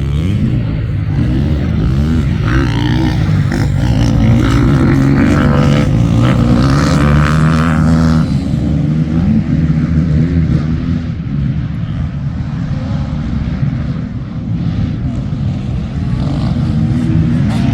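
Motocross dirt bike engines running at a race, their pitch rising and falling as the riders rev through the track, busiest and loudest in the middle of the stretch.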